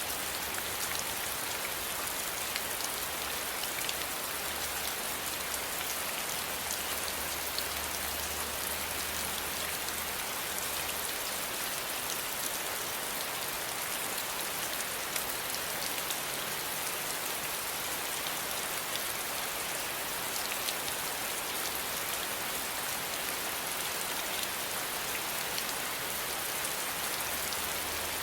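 Steady rain falling, an even hiss with the small ticks of individual drops striking a surface.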